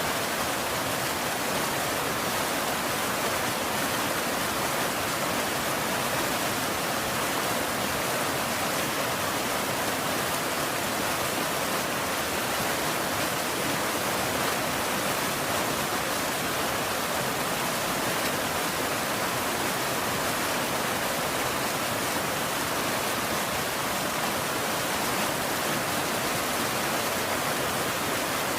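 Steady rain falling, an even rushing hiss that does not change, with no thunder.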